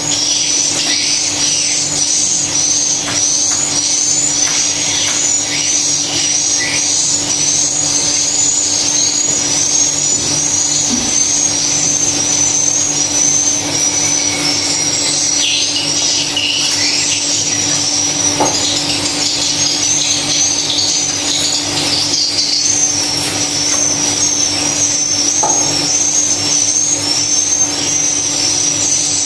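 High-pitched twittering swiftlet calls repeating in an even, looped rhythm, as from the call-playback tweeters of a swiftlet house, over a steady low hum.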